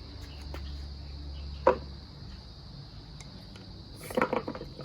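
Small hard parts being handled during an oil filter change: a single sharp knock, then a quick cluster of light clicks near the end.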